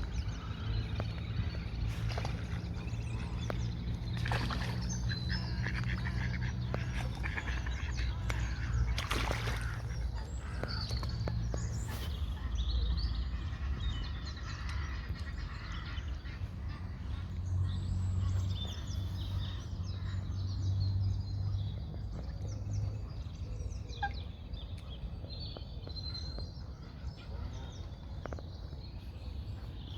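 Outdoor ambience: birds calling and chirping, scattered short calls over a low steady rumble, with a few light clicks.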